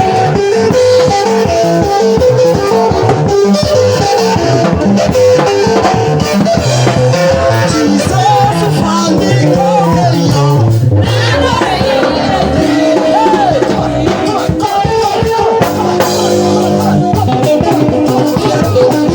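Upbeat church praise-band music, with drum kit, guitar and singing over a steady beat.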